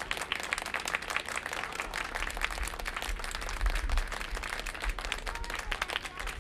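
Audience applauding: a dense patter of many hands clapping, with a low rumble underneath.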